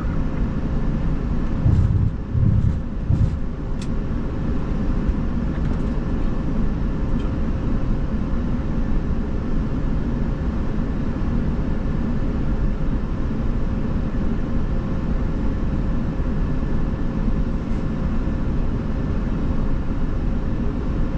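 Steady flight-deck noise inside an Airbus A350-900 cockpit: an even rush of air and engine noise with a thin steady tone running under it. A few low thumps come about two to three seconds in.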